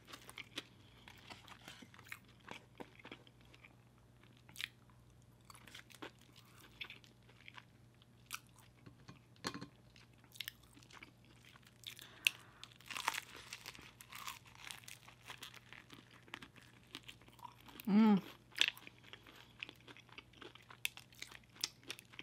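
Close-miked crunching and chewing of extra crunchy fried chicken, in irregular crisp cracks as the breaded crust is bitten and chewed, with a dense run of crunching about halfway through. A short hum of the voice stands out about eighteen seconds in.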